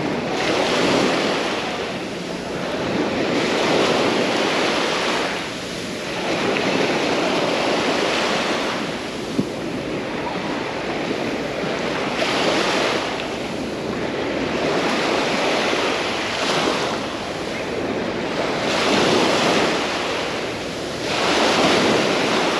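Small waves breaking on a sandy beach of the Mediterranean, each wash swelling and ebbing every three to four seconds.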